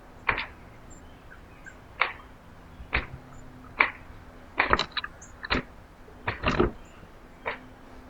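Sharp taps and knocks, irregular, roughly one a second, some coming in quick pairs or clusters.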